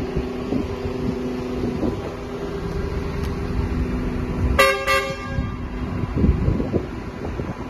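Two short horn toots from a truck-mounted concrete pump, close together about four and a half seconds in, over the steady hum of the truck running. The horn is the warning that work is about to begin, so people nearby should move clear.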